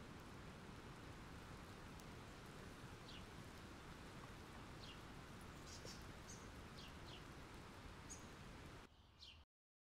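Faint steady rain hiss, with a bird chirping a string of short, high, falling calls from about three seconds in. The sound drops away and cuts off suddenly just before the end.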